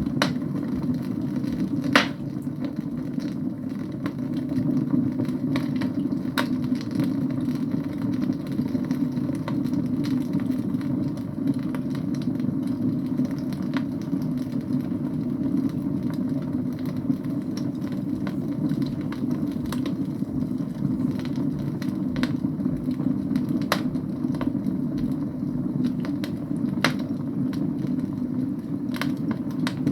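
Wood fire burning in a fireplace: a steady low rumble of burning logs with sharp crackling pops every few seconds, the loudest about two seconds in.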